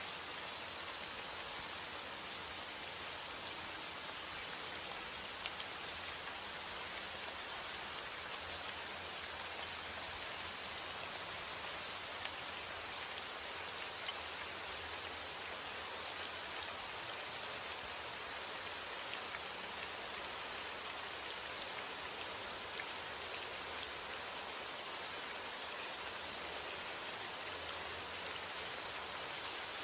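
Steady heavy rain: a dense, even hiss of rainfall with many small drop hits on a surface.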